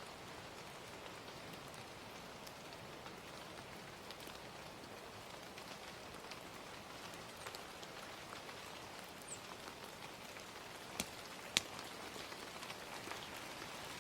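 Gentle steady rain mixed with a crackling fire, the fire giving scattered small ticks and two sharper pops about eleven seconds in.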